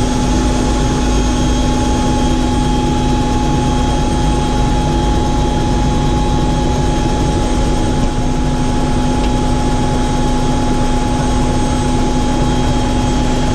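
Helicopter in flight, its engine and rotor running steadily with a constant hum and a couple of held tones.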